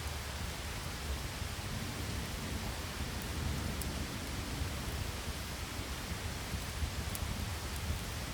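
Steady rain ambience: an even hiss of rain over a low rumble, with a few faint ticks.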